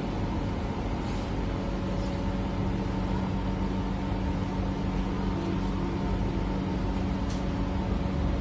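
Train running steadily: an even rumble with a continuous hum.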